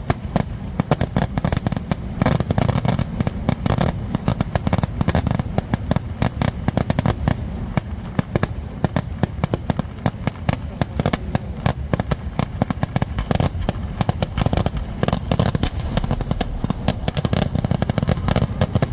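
Kerala temple fireworks (vedikettu) barrage: a dense, unbroken rapid-fire string of loud bangs over a heavy low booming, with no let-up.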